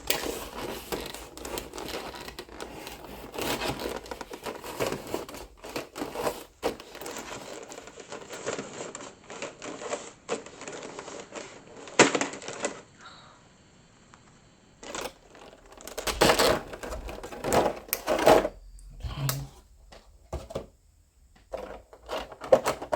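Small plastic parts bags crinkling and rustling while model-kit parts are handled, with dense small clicks and taps of the parts. About halfway through it goes quieter, with a few separate sharper knocks as pieces are set down on the table.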